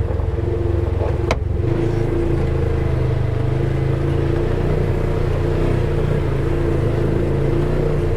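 Polaris side-by-side UTV engine running steadily, heard from on board, with a single sharp click about a second in.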